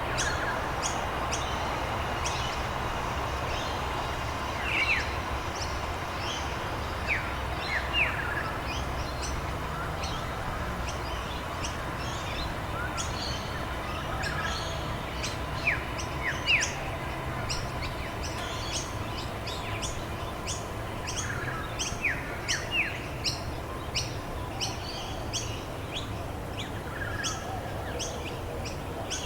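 Songbirds chirping and calling: many short high chirps and a few falling whistled notes, over a steady hiss of rain.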